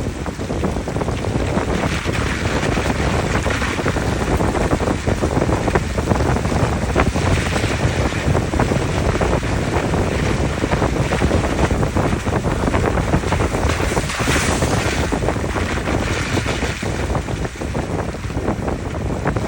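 Tyres of a Jeep Gladiator Rubicon rolling along an unpaved road: a steady rumble of road noise, peppered with many small clicks from stones under the tyres.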